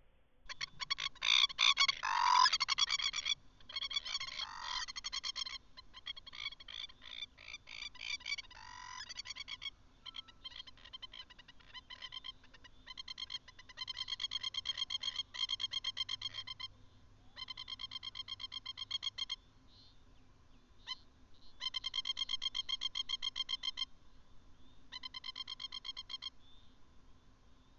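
Frogs calling: repeated trains of rapid, rattling pulses about one to two seconds long, several callers overlapping loudest in the first few seconds.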